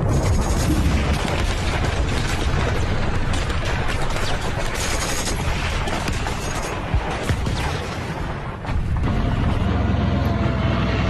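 Battle sound effects: dense gunfire and explosions, heavy booms over a crackle of shots. About nine seconds in, this gives way to a steady low rumble.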